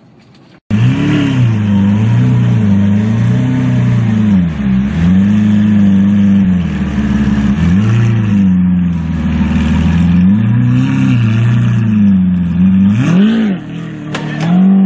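A car engine is revved hard, its pitch climbing and falling again every second or two, with a steady hiss of road or tyre noise. It starts abruptly a little under a second in. Near the end there is a quick rev and then a sharp crack.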